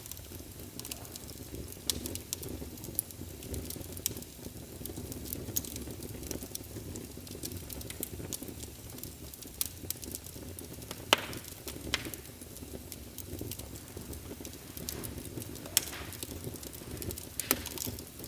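Crackling wood-fire sound from a fireplace sound emulator: a steady low rumble of flames under irregular sharp pops and snaps, with the loudest pops about 11 and 12 seconds in.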